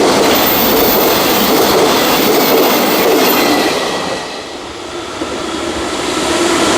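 A freight train of container wagons running past at speed, its wheels rumbling and clattering over the rails. The noise dips about four seconds in, then builds again.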